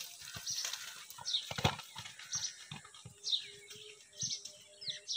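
Small birds chirping again and again in short falling notes, over a string of soft low thuds, with a faint steady hum setting in about three seconds in.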